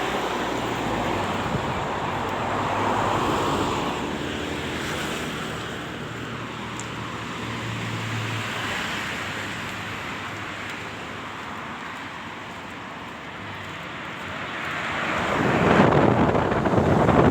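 Outdoor noise of wind on the microphone with vehicles passing, rising and fading in slow swells; the loudest pass comes near the end.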